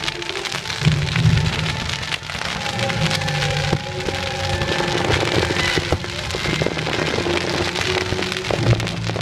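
Fireworks display: dense crackling from glittering star shells, with a few sharper pops, over the show's music soundtrack.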